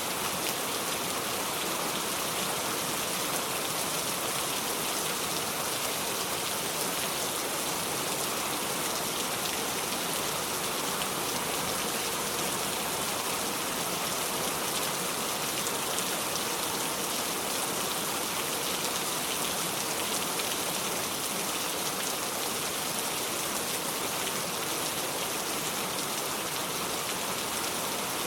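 Steady heavy rain falling, a constant hiss of drops with no thunder.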